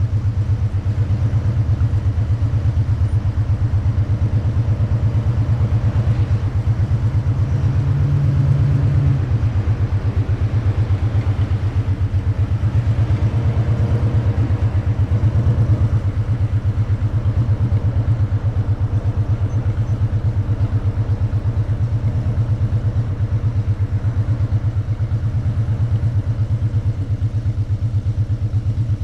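Motorcycle engine running at steady revs while riding, with a brief rise in engine pitch about eight seconds in.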